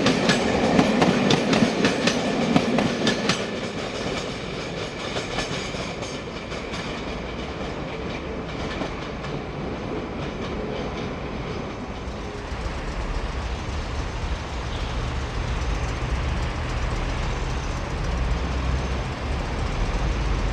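A train running over the rail joints, its wheels giving a quick run of clicks that fades after about three seconds. A steady low rumble builds from about twelve seconds in.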